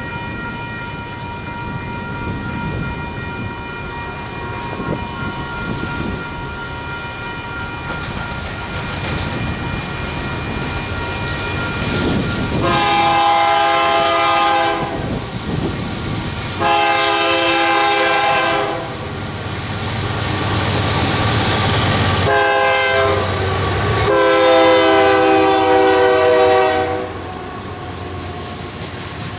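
Union Pacific GE AC-series diesel locomotives sounding a multi-chime air horn in the long, long, short, long grade-crossing pattern as the coal train approaches. Under the horn the locomotives' engines and the train's rumble grow louder. Before the horn a steady high ringing fades out about twelve seconds in.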